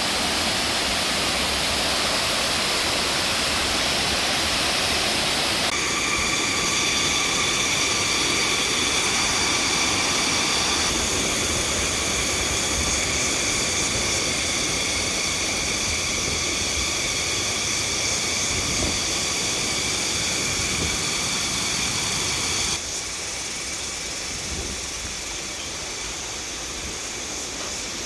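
Waterfall's rushing water: a loud, steady hiss that changes abruptly about 6, 11 and 23 seconds in. From about six seconds in to the change near 23 seconds, a steady high drone sits over the water.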